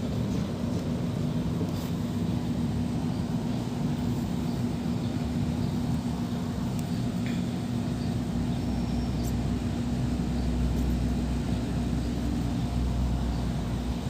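Small two-stroke brush cutter engine running steadily at an even speed, with a constant hum.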